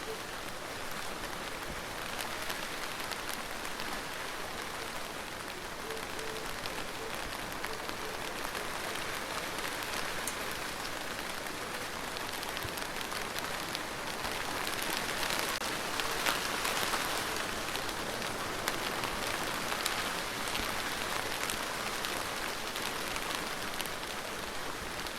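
Steady rain falling, a dense patter with individual drops ticking through it, growing heavier for several seconds around the middle before easing back.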